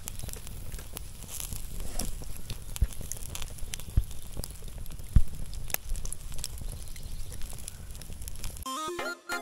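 Scattered crackles and clicks over a steady low rumble, with a few louder knocks. Music cuts in near the end.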